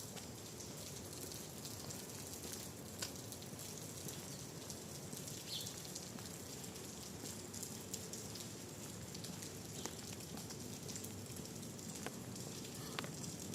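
Steady rain falling, an even hiss with a few sharp drip ticks scattered through it.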